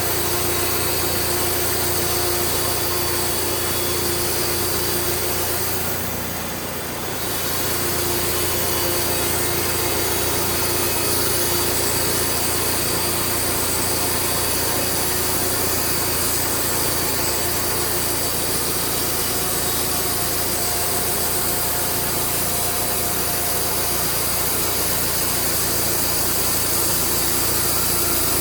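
An engine running steadily at constant speed, with a brief dip in level about six seconds in.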